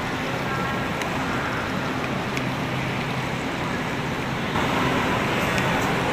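Steady noise inside a passenger train carriage, with a low hum and a few light clicks, growing a little louder about four and a half seconds in.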